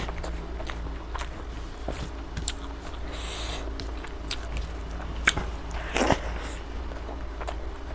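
Close-miked eating sounds: wet chewing and smacking of a mouthful of rice and chicken, and fingers mixing rice on a banana leaf. Sharp clicks come throughout, and a louder burst about six seconds in as another handful goes into the mouth.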